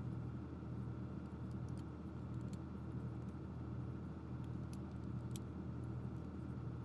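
Steady low electrical-type hum, with a few faint light clicks scattered through it, such as small parts being handled.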